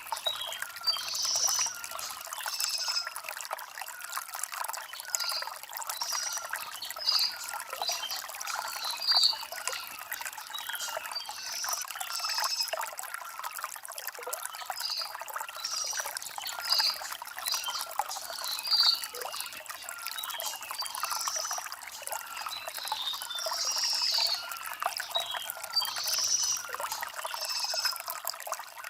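Shallow stream water trickling and burbling over stones: a continuous run of small, irregular gurgles and splashes, light and without low rumble.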